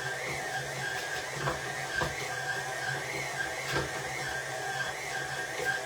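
Stand mixer with its dough hook kneading dough: a steady motor whine that wobbles in pitch in an even rhythm, about every half second, with a few soft knocks.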